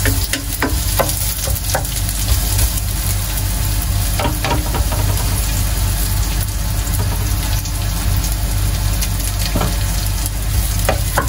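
Sliced onion and chopped garlic sizzling steadily in hot oil in a nonstick pan as they brown, briefly stirred with a wooden spoon at the start, with a few short sharp clicks here and there.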